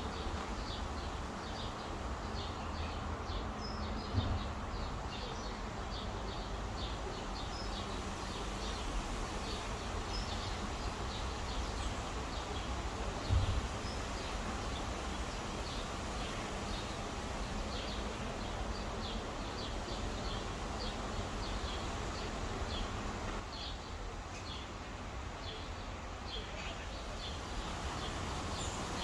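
Small birds chirping in quick, repeated high notes over a steady outdoor background noise. Two brief low thumps come about four and about thirteen seconds in.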